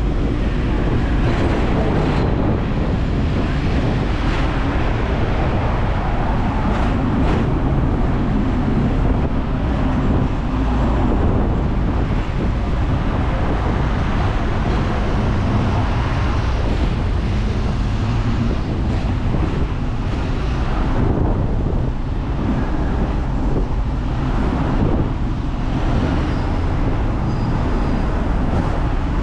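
Hong Kong double-decker tram running along the street: a steady low rumble from the car and its rails, with wind buffeting the microphone and road traffic around it.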